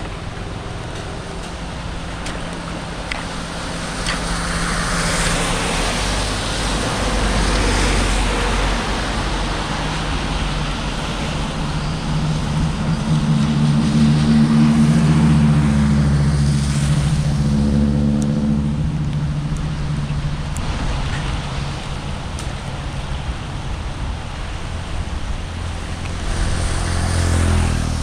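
A motor vehicle's engine running, growing louder through the middle and easing off, over a steady rush of noise.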